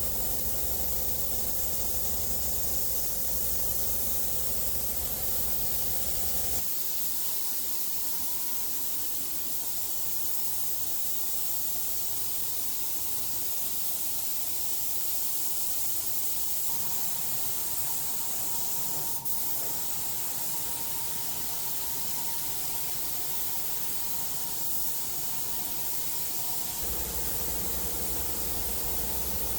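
Steady hiss of compressed air from a paint spray gun. A low machine hum under it stops abruptly about six seconds in and comes back near the end.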